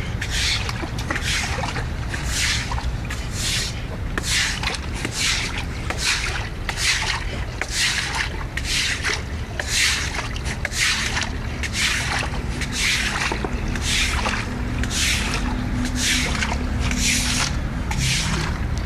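Broom sweeping water across a wet floor in quick, even, repeated swishing strokes, about two a second.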